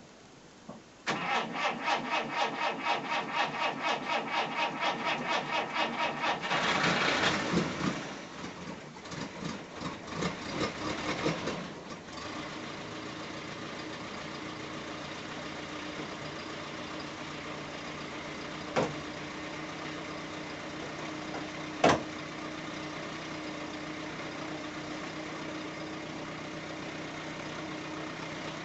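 1968 Škoda 1000MB's four-cylinder engine cold-started after about four months unused. The starter cranks in even pulses for about five seconds, then the engine catches and runs unevenly for several seconds before settling into a steady idle. Two sharp clicks come during the idle.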